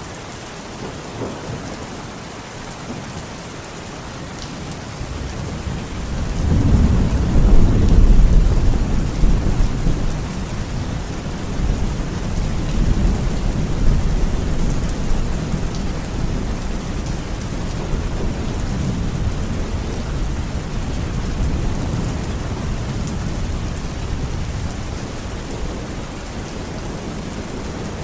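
Steady rain falling, with a long low roll of thunder that swells about six seconds in, peaks a couple of seconds later, then rumbles on more softly under the rain.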